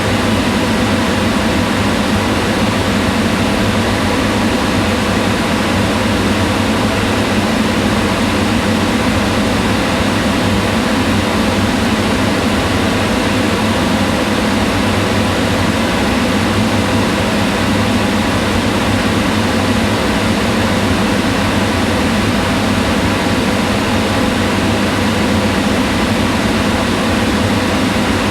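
Kitchen range hood extractor fan running steadily: an even rushing of air with a low hum and faint steady tones, no change in speed.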